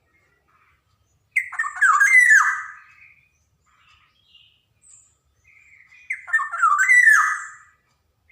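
Black-naped oriole (kepodang emas) calling in two phrases, one about a second in and one about six seconds in. Each lasts just over a second and mixes slurred, fluty whistled notes with harsher, rasping notes.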